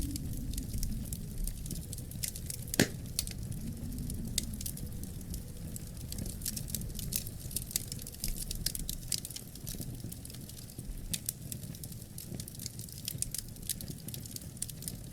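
Wood fire in a fireplace crackling: many small irregular snaps over a steady low rumble of burning, with one louder pop about three seconds in.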